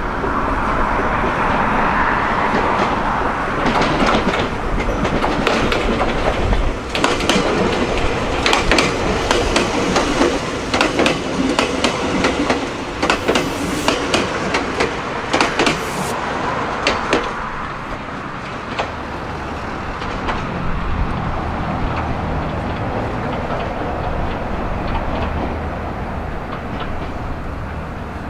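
A Meitetsu electric train passing, its wheels clattering over track joints in a quick, irregular run of sharp clacks from about four seconds in. Near the end the clatter gives way to a lower, steady running hum.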